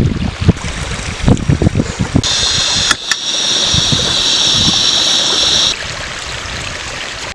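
Running mountain stream water, a steady rushing hiss, with low thumps of wind or handling on the microphone in the first two seconds. A louder, higher hiss starts abruptly about two seconds in and stops just before six seconds.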